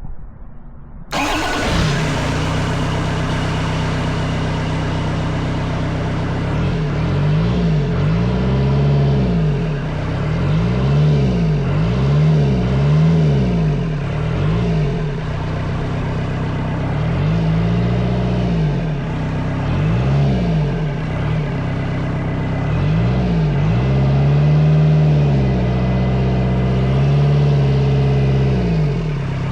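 Kubota V2203 four-cylinder diesel starting about a second in and then running smoothly with no misfire, now that the air has been bled from the injector lines. Its speed rises and falls several times as it is revved.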